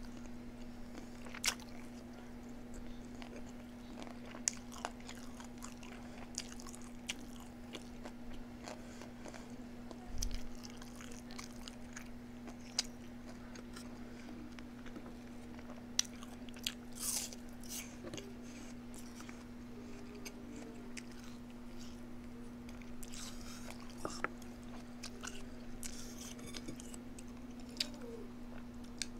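A person eating close to the microphone: chewing and mouth sounds with scattered sharp clicks, over a steady low hum.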